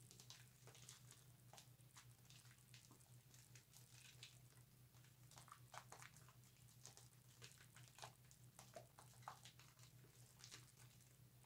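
Faint wet squishing and crackling of bar soap being lathered: many small, irregular squelches, with a steady low hum underneath.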